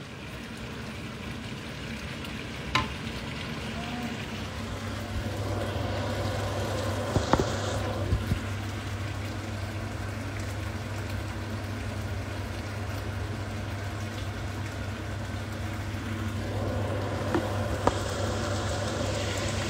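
Sambal frying in a pan with a steady sizzle as it is cooked down to dry it out, with a few light knocks.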